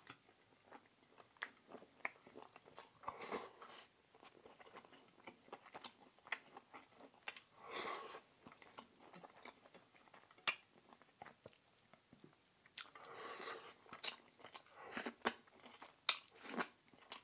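Close-miked chewing of food, with many scattered sharp mouth clicks and a few longer, softer stretches of chewing noise.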